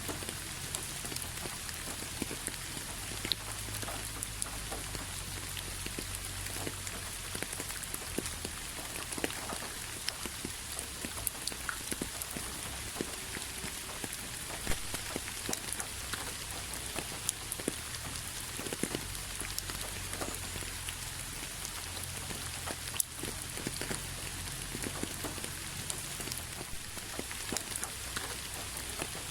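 Steady rain falling on a hard surface, an even hiss with many individual drops pattering and clicking throughout.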